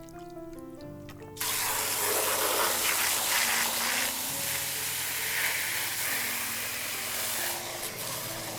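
Food starting to sizzle loudly on a hot grill net, a steady frying hiss that begins suddenly about a second and a half in, over background music.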